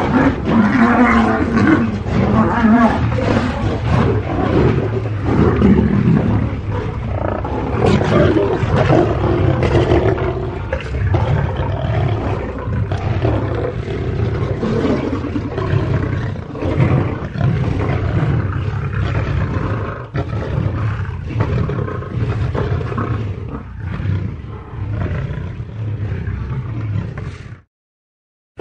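Lion roaring in one long continuous stretch that cuts off suddenly near the end.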